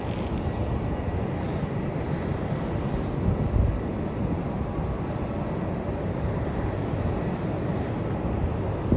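Distant jet airliner engines, a steady rumble across the airfield, with a brief louder thump about three and a half seconds in.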